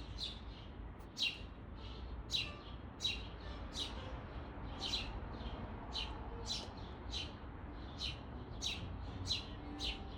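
Small birds chirping: a steady series of short, sharp, high chirps, often in quick pairs, one or two a second.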